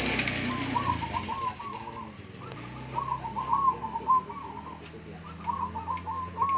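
Zebra dove (perkutut) cooing: three phrases of short rhythmic coo notes, each a little over a second long, a couple of seconds apart.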